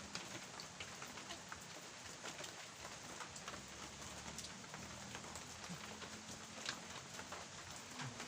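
Steady rain falling: an even hiss with many scattered small drop ticks.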